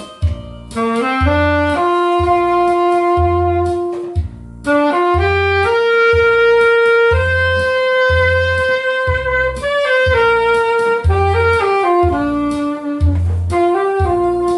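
Saxophone playing a slow melody of long held notes over a backing track with a steady low beat about once a second, with a short break in the melody about four seconds in.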